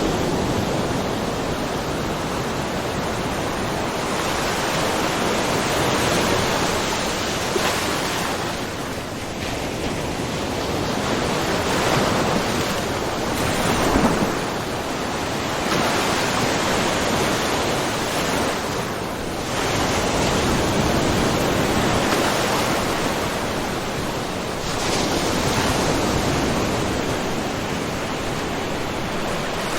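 Small ocean waves washing and splashing against a rocky shore. The wash swells and eases every few seconds, with a sharper splash about halfway through.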